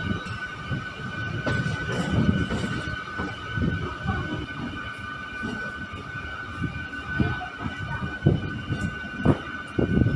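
MEMU electric passenger train running on the rails: a steady low rumble with irregular wheel knocks, two sharper ones near the end, over a steady high-pitched whine.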